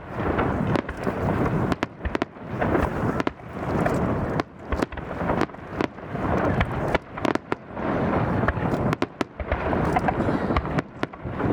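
Fireworks display: shells bursting with many sharp bangs and crackles in quick succession, in waves a couple of seconds long with brief lulls between them.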